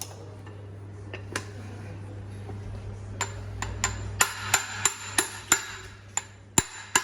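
Hammer blows on metal, driving the new centre support bearing onto a Mercedes Vito propeller shaft: a few separate ringing strikes, then steady strikes about three a second from about four seconds in. A low steady hum stops at about the same point.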